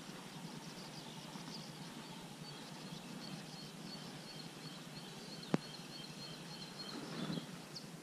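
A songbird singing a long run of quick high notes over a steady background hiss, with a single sharp click about five and a half seconds in.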